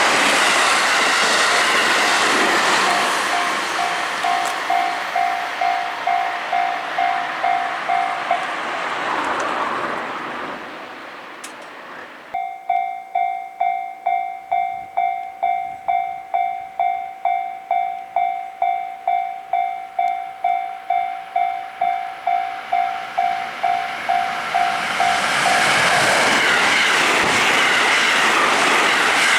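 An electric train on the JR Kyoto Line passes a level crossing, its rumble and wheel clatter fading away. The crossing's electronic warning bell rings in a steady, fast ding-ding of about two strokes a second, stops, then starts again loud about twelve seconds in as the crossing closes for another train. That train comes through loudly near the end.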